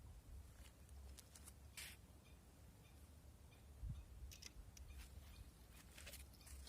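Near silence: a faint low wind rumble on the microphone, with a few light scattered clicks and a short hiss about two seconds in.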